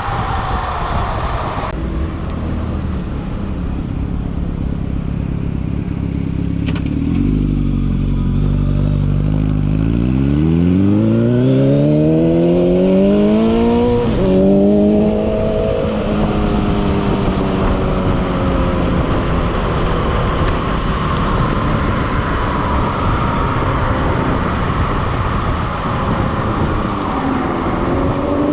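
A vehicle's motor accelerating hard: its pitch climbs steadily for several seconds, breaks and dips briefly, then holds at a high steady pitch. A constant rush of wind runs underneath.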